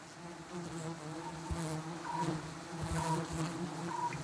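Honeybee colony buzzing: a steady hum of many wingbeats that swells and fades as bees fly close. The colony is being smoked, which disorientates the bees.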